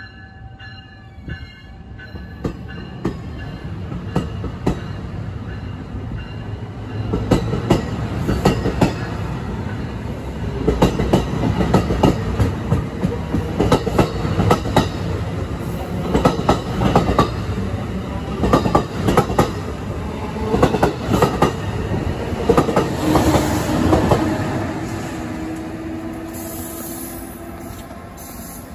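Passenger train passing, its wheels clicking in repeated clusters over the rail joints as car after car goes by; the sound builds, stays loud for most of the time, then fades near the end.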